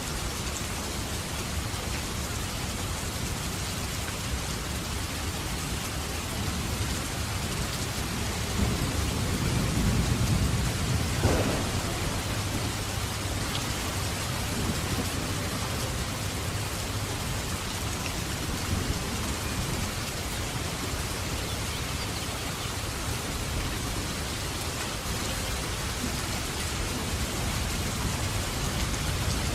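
Steady heavy rain with a roll of thunder: a low rumble builds about eight seconds in, peaks with a short crack a little after ten seconds, and fades back into the rain.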